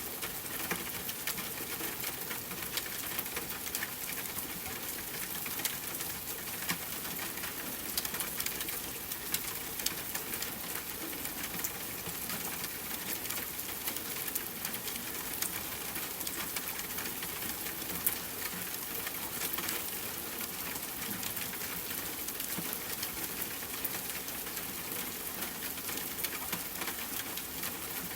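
Steady rain hiss mixed with a wood fire crackling: frequent small pops and snaps scattered irregularly over the rain, one sharper snap about eighteen seconds in.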